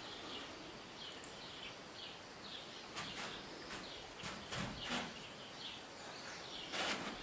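Small bird chirping over and over, short high chirps about twice a second, in a quiet room. From about three seconds in, a handful of soft scuffs and taps as the dancer's feet shift and slide on the floor, with a couple more near the end.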